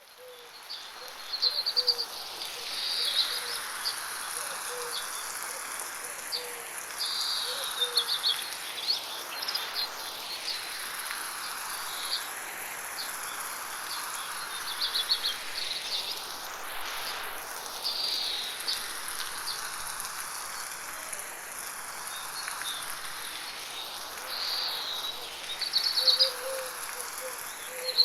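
Birds chirping in short, repeated trills over a steady hiss of light rain and insects, fading in over the first couple of seconds. The whole sound sweeps slowly around the listener with an 8D panning effect.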